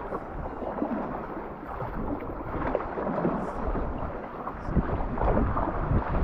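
Wind rumbling on the microphone over water splashing and sloshing around a kayak being paddled.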